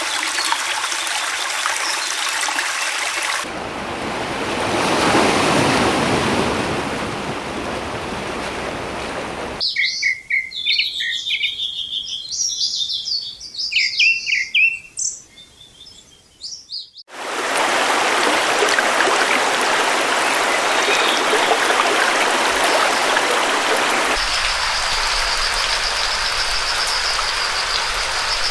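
Running water, like a stream, rushes steadily and is cut off abruptly. About ten seconds in it gives way to some seven seconds of birds chirping alone, then the water rush returns. Near the end a steady high-pitched trill runs over the water.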